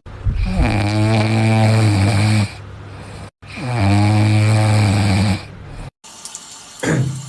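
A sleeping dog snoring: two long, steady snores of about two seconds each, then a shorter one near the end.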